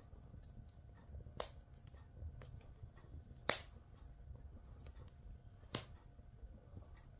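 Wood logs burning in a fireplace, crackling: scattered small ticks and three sharp pops, the loudest about halfway through, over a low steady rumble of the fire.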